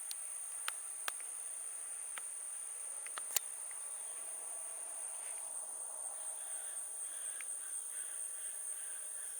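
A steady, high-pitched insect chorus. A few sharp clicks sound within the first few seconds.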